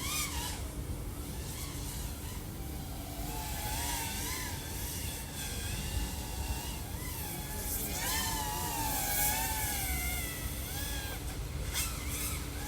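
A 3.5-inch FPV quadcopter flying, its motors and propellers whining with a pitch that rises and falls as the throttle changes.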